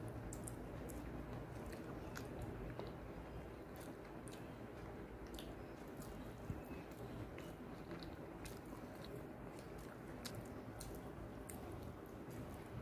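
Close-miked chewing and wet mouth sounds of a person eating rice with her hand, with soft squishing of rice and dal being mixed between the fingers. Faint, with many small irregular clicks and one sharper click about halfway through.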